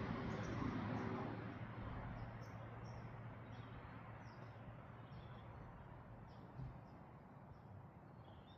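Small birds chirping, over a rushing noise with a steady low hum that fades away over the first few seconds.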